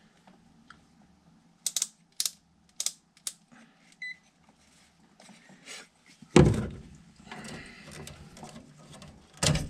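Small sharp clicks and rattles of tools or meter leads being handled, a single short electronic beep of the kind a multimeter gives, then two heavy knocks, the first about halfway through and the louder of the two.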